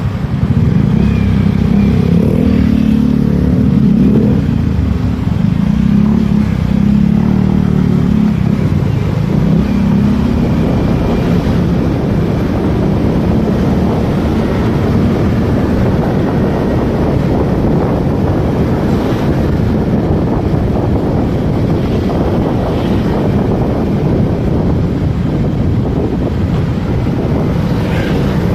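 Motorcycle under way, its engine running with road noise, loud and steady; the engine note wavers in the first ten seconds or so.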